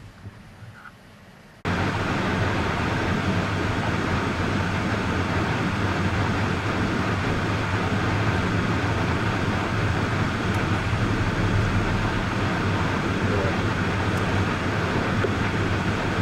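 Steady road and engine noise of a moving car, a constant low hum under an even rushing noise, starting abruptly just under two seconds in after a quiet stretch.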